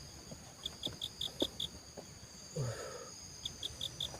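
Forest insects calling: a steady high shrill drone with two runs of about six quick chirps, one early and one near the end. A short low voice-like sound falls in pitch about two and a half seconds in, among a few faint clicks.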